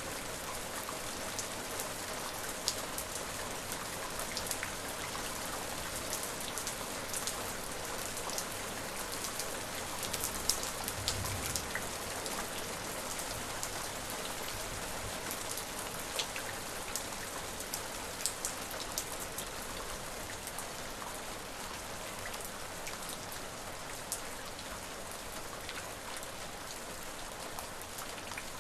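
Steady rain falling, an even hiss with many separate drops ticking sharply as they strike a surface.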